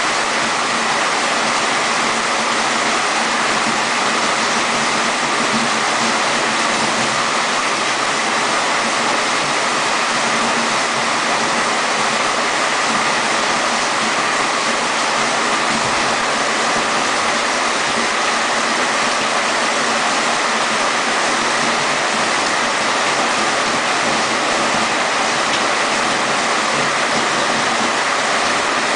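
Heavy rain with rushing water, a steady, loud, even rush.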